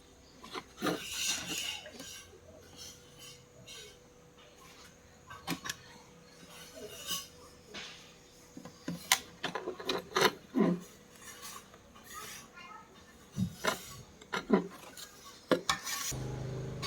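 Scattered clicks, clinks and scrapes of small hard objects being handled, some in quick clusters, with a steady low hum starting near the end.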